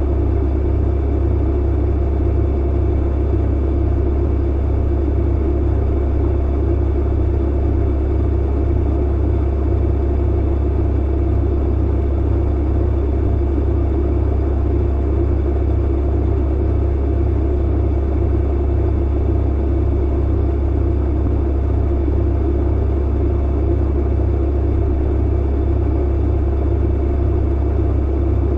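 Clothes dryer running: a steady low hum with a few faint, steady higher tones above it.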